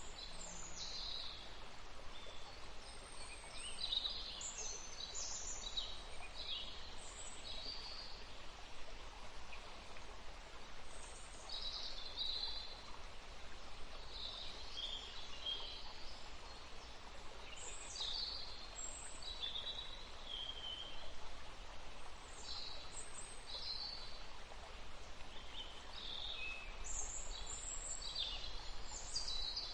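Several songbirds chirping and trilling on and off in quick high-pitched phrases, over a steady hiss of outdoor ambience.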